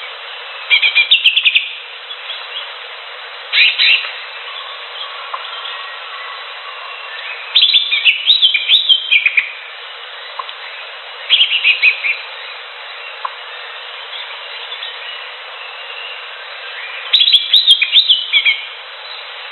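Green leafbird (cucak hijau) singing in short, fast bursts of high chirping and twittering notes, about five phrases of one to two seconds each, over a steady background hiss.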